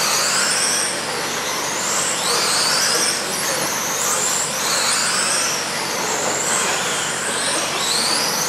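Several radio-controlled racing trucks running together, their motors making high whines that rise and fall in pitch as they speed up and slow down, over a steady rushing noise.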